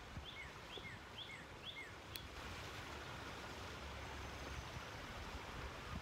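A bird repeating quick short chirps, alternating a higher and a lower note, for about the first two seconds, over a steady outdoor hiss and a low rumble. A single sharp click about two seconds in.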